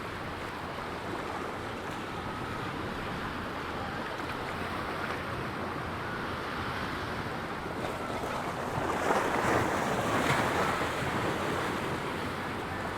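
Ocean surf washing steadily onto a sandy beach, with one wave breaking louder about nine seconds in and then easing off. Some wind on the microphone.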